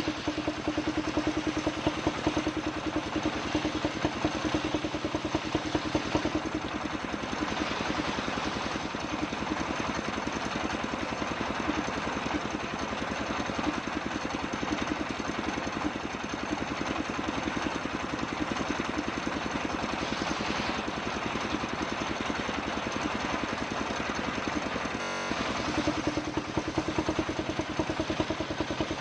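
Circular saw machine running steadily with a rhythmic, engine-like putter and a noisy rasp as its blade cuts kapok wood into boards, with a brief dip near the end.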